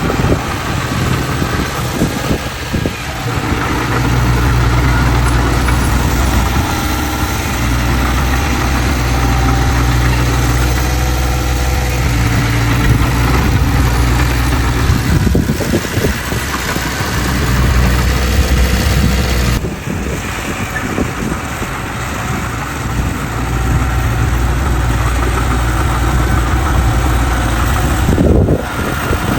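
Heavy diesel engine of a bulldozer running under changing load, its low drone swelling and easing several times.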